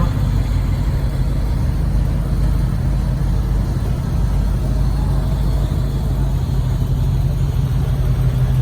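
A motor vehicle's engine running steadily at low revs, a deep even drone.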